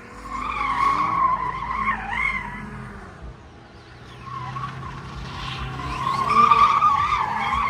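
Car tyres squealing as a car spins its wheels on pavement, a wavering screech over the engine's low running. It fades about halfway through and comes back louder near the end.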